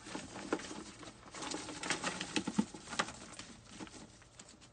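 Artificial evergreen branches and plastic berry picks rustling and clicking as they are handled and tucked into a wreath, a rapid irregular string of small clicks and crinkles.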